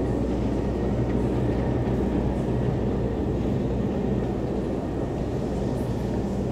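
Steady low mechanical hum and rumble, an even drone that holds without change, typical of machinery or ventilation running in an underground passage.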